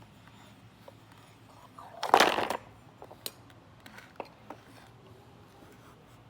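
A short, loud scraping rattle of hard parts lasting about half a second, followed by four or five light clicks and taps: tools and parts being handled while removing a washing-machine pulsator.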